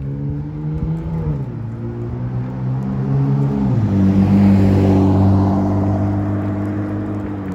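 Car engine accelerating through gear changes: its pitch climbs, then drops sharply twice as the transmission shifts up, over a low rumble of road noise.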